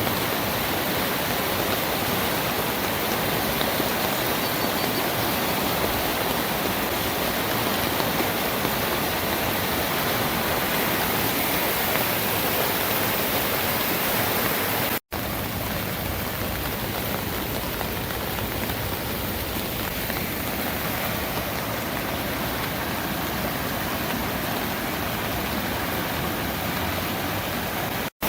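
The swollen Little Pigeon River rushing in flood after hours of rain, a loud, steady roar of fast water. It cuts out for an instant about halfway and comes back slightly quieter, then cuts out again briefly near the end.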